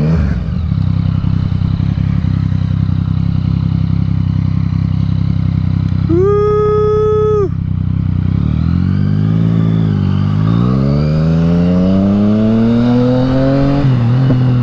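Yamaha MT-09's inline three-cylinder engine through an Akrapovič exhaust, first holding a steady note. About six seconds in, a horn sounds once for about a second and a half. Then the engine pulls away, its revs climbing steadily for several seconds before dropping at a gear change near the end.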